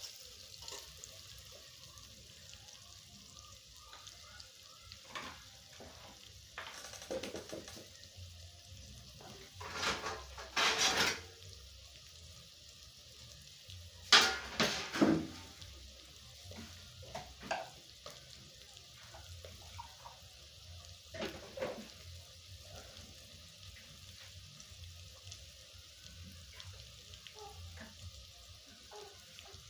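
Small dried fish and chopped greens frying in a metal pot over a charcoal stove, a steady sizzle. A few louder clatters of the metal spoon and pot come about ten and fourteen seconds in.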